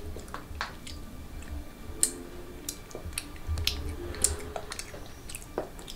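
Crisp clicks and crackles of children biting and chewing crunchy sugar-coated cheese rice cakes (getas keju), the sharpest about two seconds in and again a little after four seconds.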